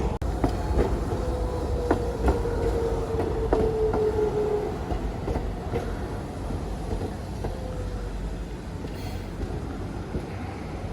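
Train running on rails with a steady rumble, its wheels clicking over rail joints at uneven intervals, and a whine that falls slightly in pitch during the first few seconds.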